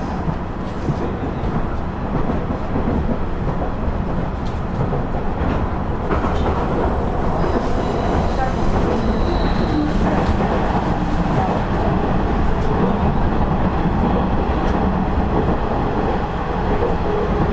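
Inside a KiHa 112 diesel railcar running on the line: a steady rumble of the diesel engine and the wheels on the rails. A faint high squeal comes in about six seconds in and fades a few seconds later.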